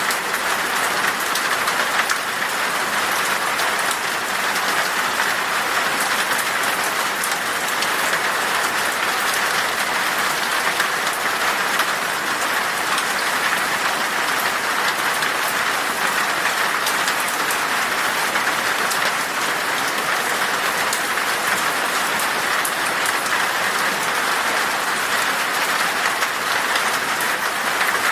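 Steady rain falling in a forest, an even hiss with fine drop patter.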